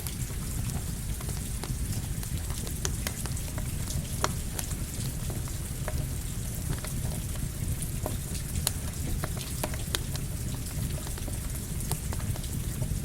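Steady rain mixed with a crackling campfire: scattered sharp pops and snaps of burning wood over an even hiss and low rumble.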